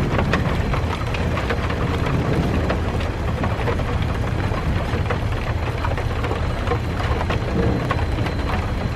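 Steady rain falling, with many small drops ticking on a surface, over a continuous low rumble.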